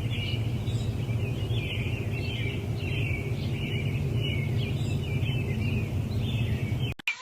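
Birds chirping over and over against a steady low rumble, which cuts off abruptly just before the end.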